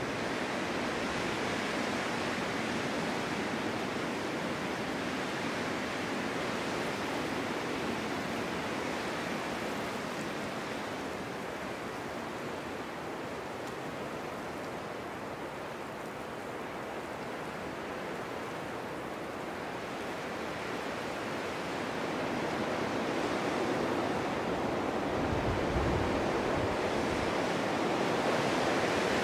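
Snowstorm wind blowing in a steady rush that eases a little in the middle and swells again near the end, with a short low rumbling gust a few seconds before the end.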